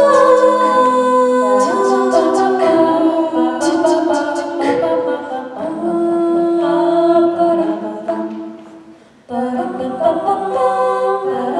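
A cappella vocal group singing held chords in close harmony. The singing fades away about nine seconds in, and a new chord starts at once.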